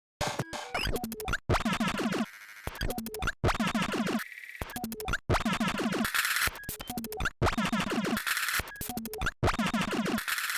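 Electronic glitch groove at 140 BPM playing back: chopped, stuttering synth glitch samples over a beat, cut off and restarted abruptly in a repeating pattern. It starts just after the beginning, with one brief buzzy held tone about two and a half seconds in.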